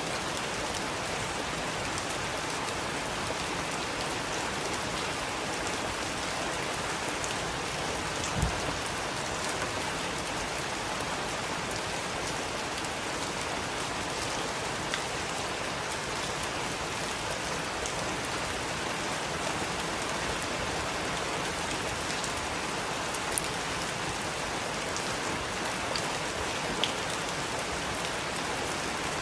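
Heavy rain falling steadily, an even hiss of drops on surfaces, with a few brief, louder single taps scattered through it.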